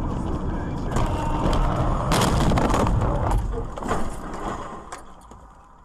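Car on the road with a steady low rumble, broken by a cluster of sharp bangs and knocks about one to four seconds in, loudest near the middle; the noise then dies down.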